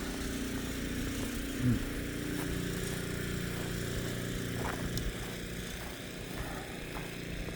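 Small petrol engine of a snowblower running steadily with an even hum and no revving.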